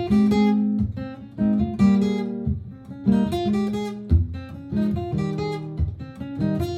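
Martin GPCPA4 acoustic guitar playing strummed chords over held bass notes, layered with improvised picked lines over a looper-pedal loop.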